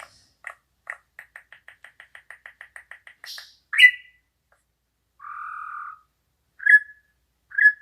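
A kutilang Australia songbird calling: a rapid trill of short notes that speeds up over about three seconds, then a loud sharp chirp, a buzzy note, and two short chirps near the end.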